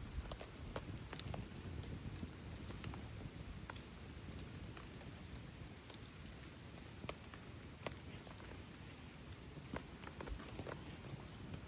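Campfire crackling with scattered sharp pops over a steady patter of rain.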